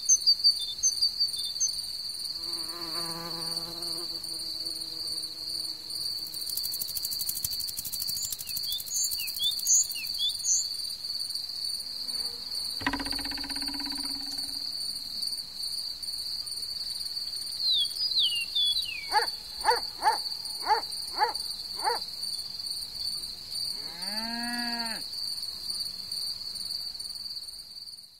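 Crickets trilling in one continuous high-pitched chorus, with scattered short chirps, a few brief pitched calls, and five quick strokes in a row past the middle.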